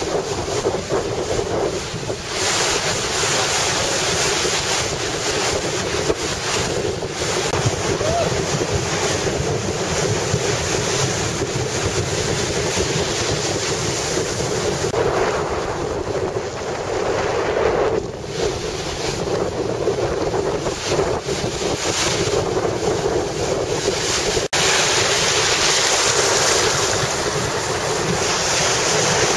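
Ocean surf breaking and washing in typhoon swell, with strong wind buffeting the microphone.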